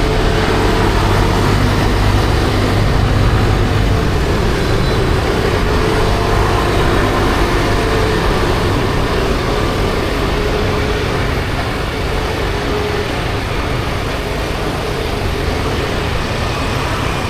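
Kymco Like 50cc scooter being ridden in city traffic: its small engine running steadily under a loud rush of wind and road noise, with the traffic around it, easing off a little toward the end.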